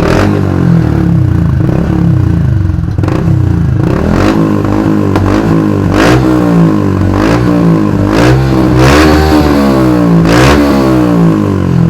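RS125 Fi motorcycle single-cylinder four-stroke engine breathing through an aftermarket Podium power pipe exhaust, revved up and down over and over in quick throttle blips, with several sharp cracks between them.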